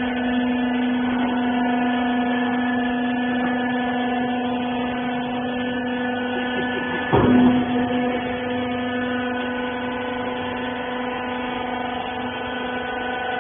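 Wiper bagging baler's motor running with a steady, even-pitched hum. A short, louder noise breaks in about seven seconds in.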